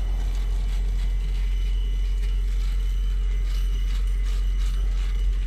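Truck engine idling: a steady low rumble that does not change.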